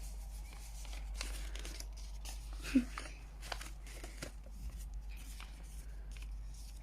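A sheet of paper being folded and creased by hand into a paper airplane: scattered soft crinkles, rustles and taps. A brief vocal murmur comes about three seconds in.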